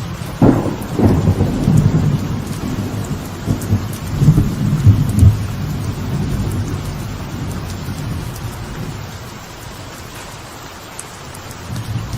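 Thunderstorm with light rain on a veranda: a sharp thunderclap about half a second in, then rolling rumbles that swell again around four to five seconds and die away, over steady falling rain.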